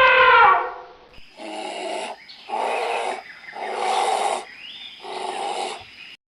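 An animal's rough, growling calls: four of them, each under a second long and about a second apart, over a faint steady high tone. Before them, the end of a longer pitched call fades out in the first half second.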